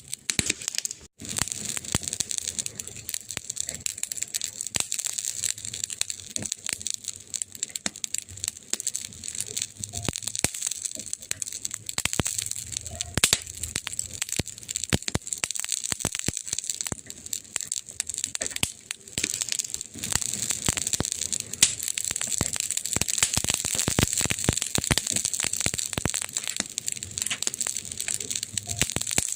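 Wood fire crackling steadily, with dense sharp snaps and pops over a soft hiss.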